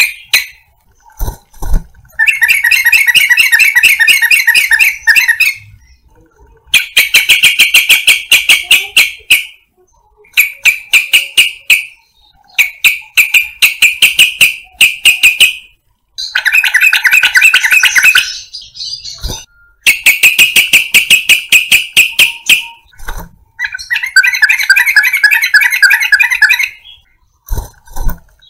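Yellow-vented bulbul (trucukan) song: loud bouts of rapid chattering notes, each lasting a few seconds, repeated about seven times with short pauses between them.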